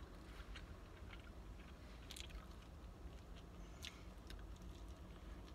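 A person biting into and chewing a brisket sandwich close to the microphone: faint, scattered mouth clicks and smacks over a low, steady rumble.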